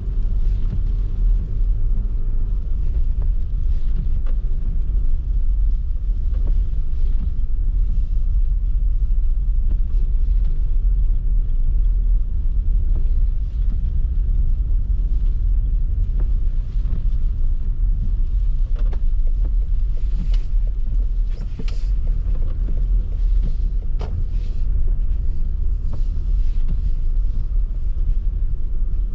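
A car being driven, its engine and road noise making a steady low rumble, with a few short clicks and knocks in the second half.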